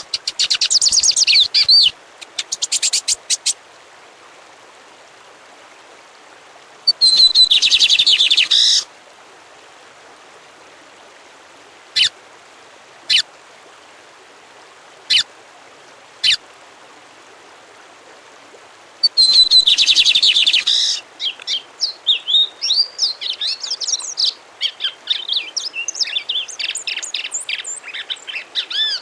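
A songbird singing in bouts: rich, fast song phrases of about two seconds near the start, around 7 s and around 19 s, a few single sharp notes in between, then a long run of varied warbling from about 21 s on, over a faint steady hiss.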